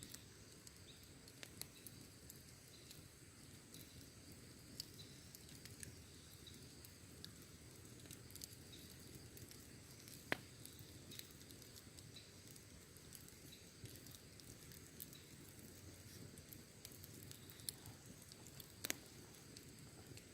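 Wood campfire crackling quietly over a low steady hiss, with scattered small pops, a sharper snap about ten seconds in and two more near the end.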